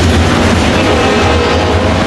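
Train rolling past at close range: a loud, steady rumble of wheels on the rails.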